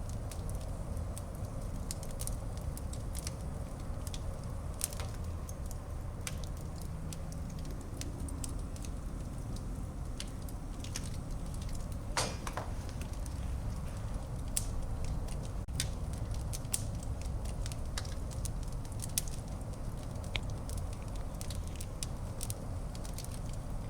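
Wood fire burning in a fireplace: a steady low rumble of the flames with irregular crackles and pops, one louder pop about halfway through.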